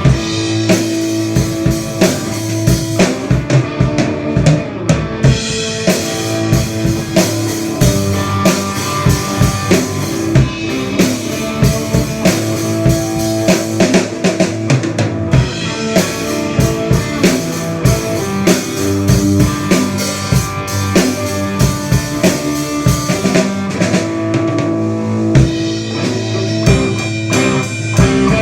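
Rock band playing live: a drum kit with bass drum and rimshots keeping a steady beat, under guitar.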